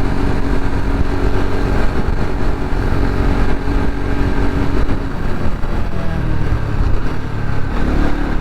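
Bajaj Pulsar RS200 motorcycle's single-cylinder engine running under way on an uphill road, heard through heavy low wind rumble on the helmet camera. Its note holds steady, then shifts about five seconds in.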